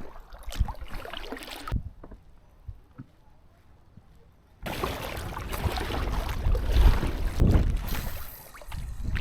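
A packraft being paddled: paddle knocks and water splashing. A quiet gap in the middle, then the paddling and water noise come back abruptly.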